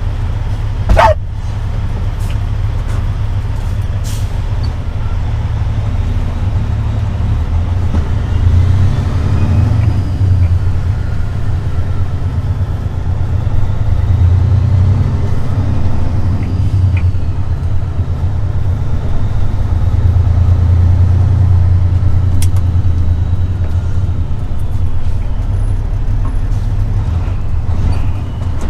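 Semi-truck's diesel engine running under way with a steady low drone, heard from the cab, swelling louder at times. A short, loud burst about a second in.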